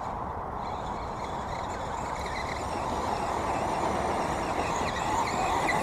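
RC crawler trucks' electric motors and drivetrains whirring under load on a climb, a steady noise that grows a little louder toward the end.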